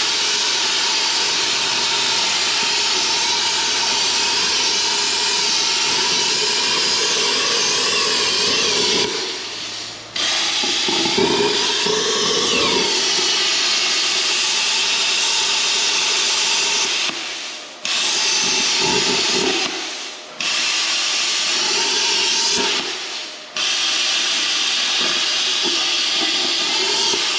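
Cutting torch hissing steadily as it cuts a relief slot into a worn steel pin bushing. It runs in stretches of several seconds, each starting suddenly and tailing off when it stops, four times.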